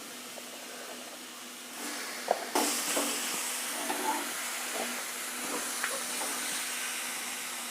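Chicken pieces sizzling in hot oil and masala in a kadai as they are stirred, with short clicks and scrapes of the spoon against the pan. The sizzle jumps sharply louder about two and a half seconds in and stays loud.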